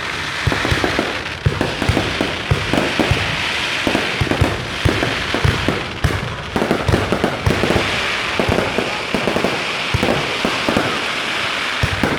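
Aerial fireworks display: a dense, continuous barrage of bangs and crackling pops, many bursts a second with no break.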